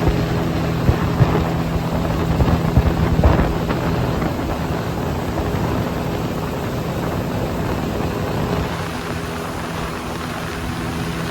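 A river boat's outboard motor running steadily under way, with wind and rushing water noise over it. A few sharp knocks come in the first few seconds, and the motor's hum weakens near the end.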